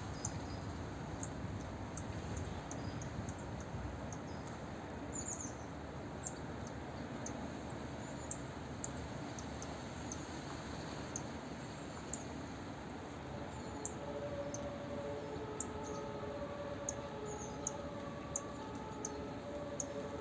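Outdoor city ambience with a steady background hum, small birds giving short high chirps again and again. About two-thirds of the way through, a distant two-tone siren starts, alternating between two pitches.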